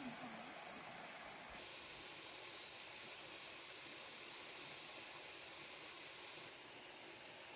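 Steady high-pitched hiss of outdoor background noise, which thins out abruptly about one and a half seconds in.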